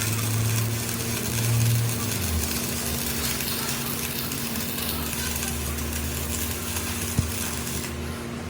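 Workshop machine running steadily with a hum and hiss; its low hum drops in pitch about two seconds in, and there is a single sharp click near the end.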